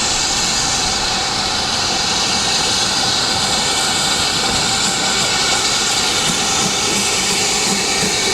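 Steam locomotive letting off steam: a loud, steady hiss that does not let up.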